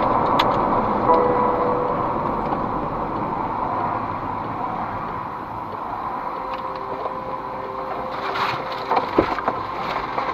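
Steady road and engine noise of a moving car as picked up by a dash cam, slowly getting quieter, with a few short knocks near the end.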